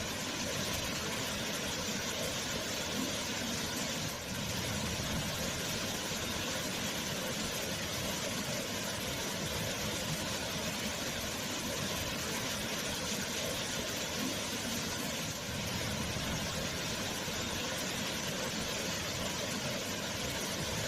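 Waterfall: a steady rush of falling water, dipping briefly twice, about four and fifteen seconds in.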